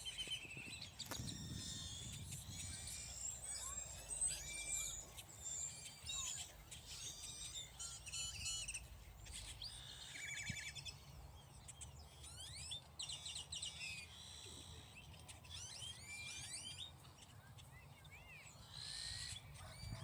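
Several small birds chirping and singing together in many short notes that sweep up and down in pitch and overlap, over a low, steady rumble.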